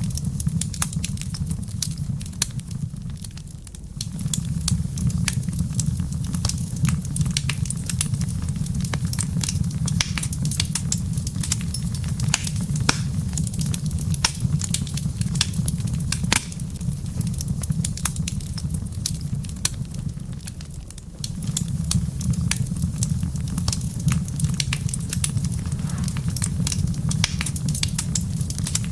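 Wood fire burning in a fireplace: dense, irregular crackles and pops over a steady low rumble of the flames, which dips briefly twice.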